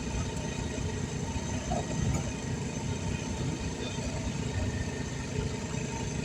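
Air compressor running steadily with a low, rapid rumble while supplying the air hose for inflating a tire.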